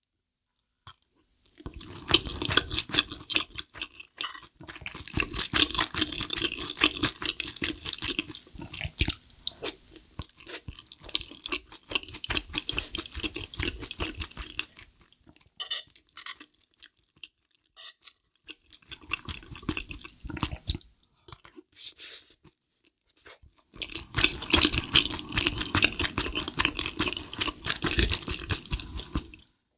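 Close-miked chewing of a mouthful of cheesy kimchi rose-sauce pilaf, wet and clicky, coming in three long spells with short pauses between.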